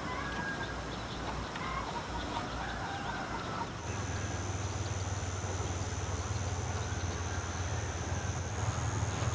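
Chickens clucking faintly. About four seconds in, a steady low mechanical hum with a thin high whine starts and carries on.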